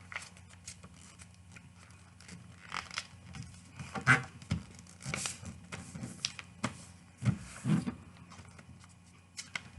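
A sheet of paper being folded and creased by hand: irregular rustles, rubs and crinkles, the loudest about four, five and nearly eight seconds in.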